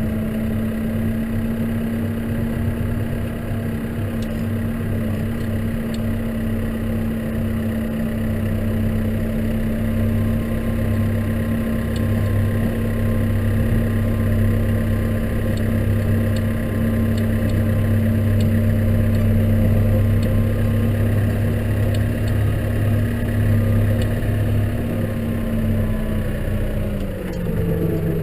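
Case tractor engine running at steady revs, then the revs drop about a second before the end.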